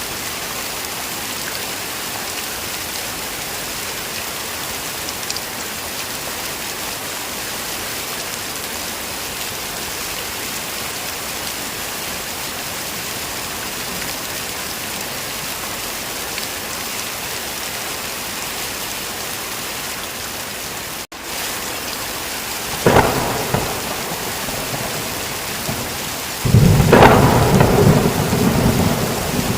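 Heavy rain falling steadily. About two-thirds through, the sound drops out for an instant, then two thunderclaps crack a few seconds apart; the second runs into a long, low rumble of thunder.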